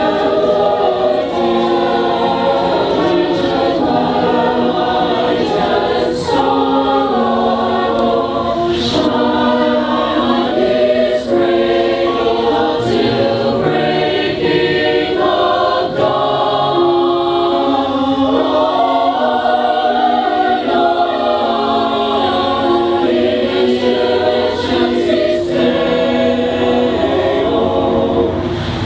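Mixed community choir singing a Christmas song, many voices holding sustained notes in harmony.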